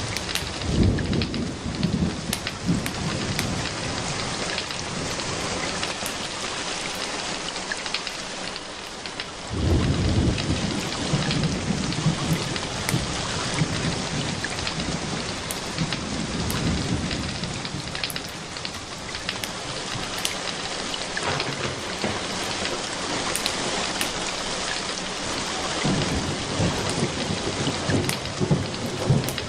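Steady rain falling, with rolling thunder rumbling in three long swells: one at the start, one about ten seconds in, and one near the end.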